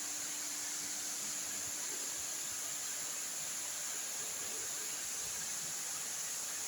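Steady, unchanging hiss of HVAC chiller plant machinery running, with the most energy in a high band.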